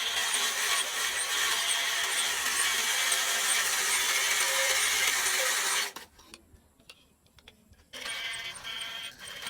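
A power tool running steadily, stopping abruptly about six seconds in.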